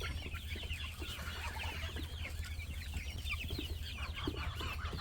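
A flock of young poultry peeping and cheeping: many short, high calls overlapping without a break, over a steady low hum.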